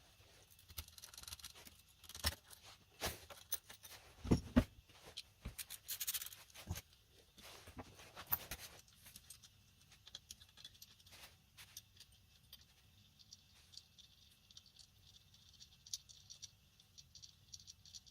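Irregular light clicks, taps and rattles of hand tools and small metal engine parts being handled, with a few louder knocks in the first half and quieter handling after that.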